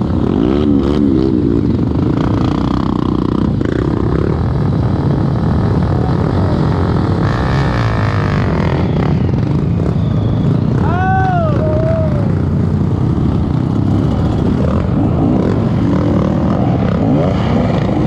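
Trail motorcycle engines running and revving up and down while riding. A short rising-and-falling tone stands out about eleven seconds in.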